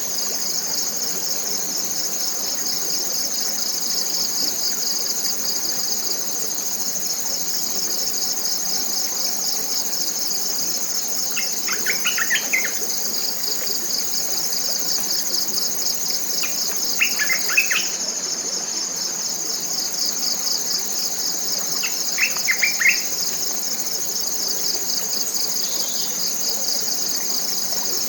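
Tropical forest insects shrilling in a continuous high chorus, one part pulsing rapidly and one part steady. A bird gives a short burst of notes three times, about five seconds apart.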